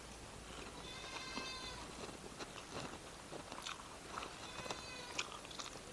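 Close-up chewing of food, with small wet clicks and crunches from the mouth. Twice, a faint drawn-out animal call, each lasting about a second, sounds in the background.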